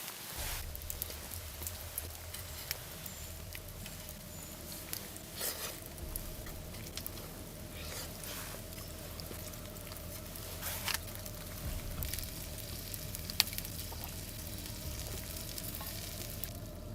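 Food frying in a pan, a steady sizzle broken by scattered pops and crackles.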